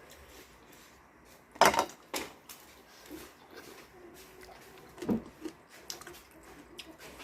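Clinks and knocks of eating utensils and dishes during a meal, with scattered small clicks and two short louder sounds, about one and a half and five seconds in.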